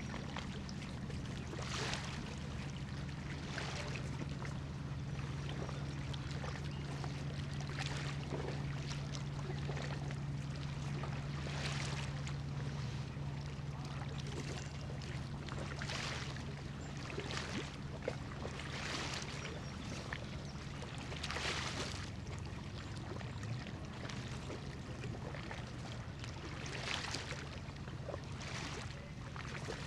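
Low, steady drone of a large cargo ship's diesel engine, with water lapping in short washes every second or two.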